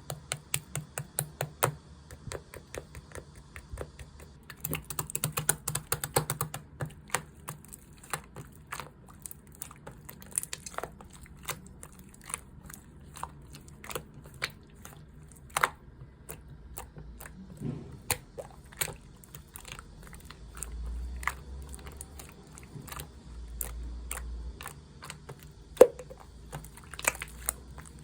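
Slime being played with by hand: a steady run of sharp, irregular sticky clicks and pops as it is squeezed and poked, thickest for a couple of seconds about five seconds in.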